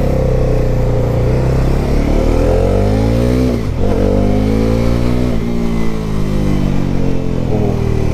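Bajaj Pulsar NS400Z's 373 cc single-cylinder engine pulling under acceleration. Its pitch climbs, then drops sharply as the rider shifts up, about three and a half seconds in and again two seconds later.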